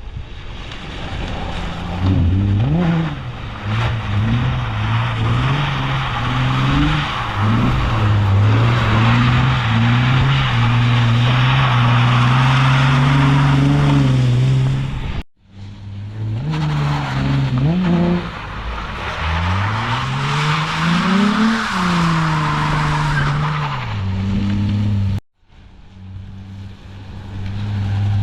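Car engine revving hard while the car drifts, its pitch climbing and dropping over and over, with the steady hiss of spinning, skidding tyres. The sound breaks off suddenly twice, about fifteen and twenty-five seconds in.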